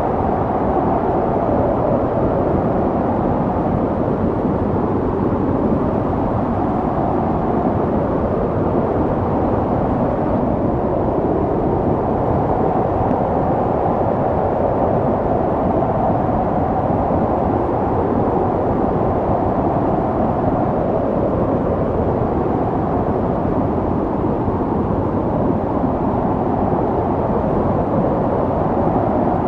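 Snowstorm wind blowing steadily: an even, low rushing noise with little hiss, its level barely changing.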